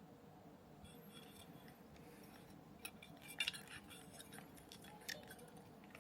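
Faint, scattered clicks and clinks of small kit parts and tools being handled, with a sharper double click about three and a half seconds in.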